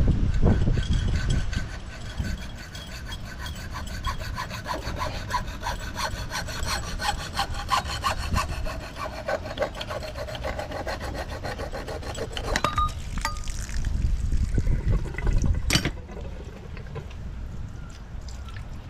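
A hand tool working metal pipe fittings in quick, rhythmic back-and-forth strokes, like sawing or filing, with a faint ringing squeal; it stops about twelve seconds in. A low rushing noise fades out in the first couple of seconds, and there is a sharp click near the end.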